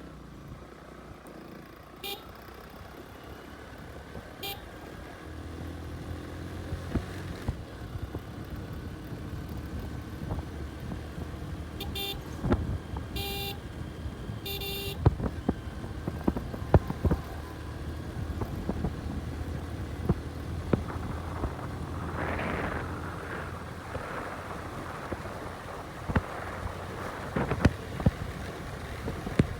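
A motorcycle riding along with its engine running steadily, and five short horn beeps in the first half. Scattered sharp knocks cut through the engine noise.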